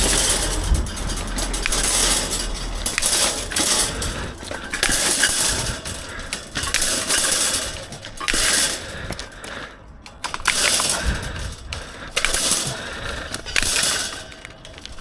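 Steel reinforcement mesh being cut and handled: repeated bursts of metallic clattering and scraping, each lasting a second or two, with short gaps between them.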